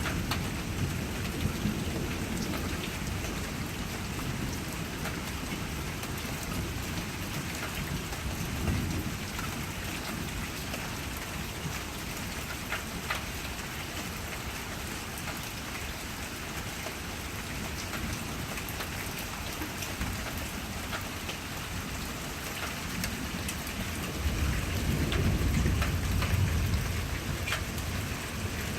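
Steady rain falling, with many individual drops ticking. Low thunder rumbles underneath, swelling briefly a couple of times and most strongly about three-quarters of the way through.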